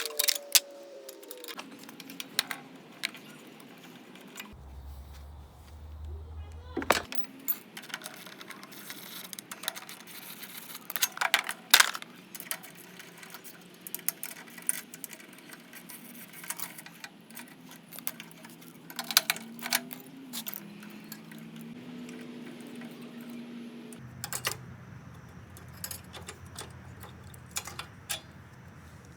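Irregular metallic clicks, clinks and knocks of hand tools and loose metal parts being handled while a four-stroke lawn mower is dismantled.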